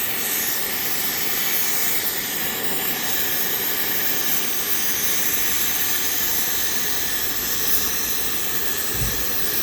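Gas cutting torch hissing steadily as it cuts through a steel excavator track chain link, with a brief low thump about nine seconds in.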